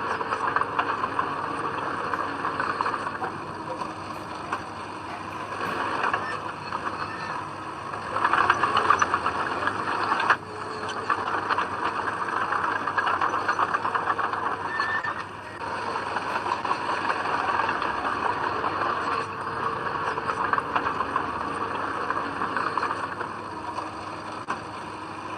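Komatsu D20P crawler bulldozer working, its engine and tracks giving a continuous rough mechanical noise that swells for a couple of seconds about eight seconds in and drops off sharply a couple of seconds later.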